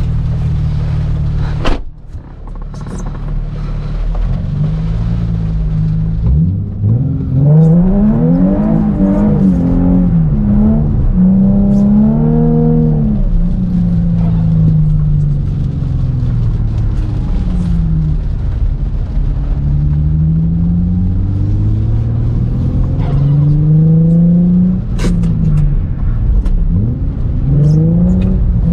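Nissan 350Z's V6 engine revving up and down repeatedly as the car is drifted, heard from inside the cabin. About two seconds in there is a sharp click and a brief drop before the revs climb again.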